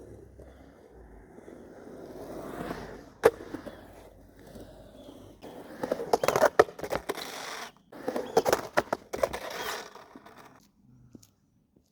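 Skateboard wheels rolling on concrete, building up over the first few seconds, with a sharp clack about three seconds in. Then come two louder scraping runs, each about two seconds long and broken by quick clacks of the board. It goes quiet about a second before the end.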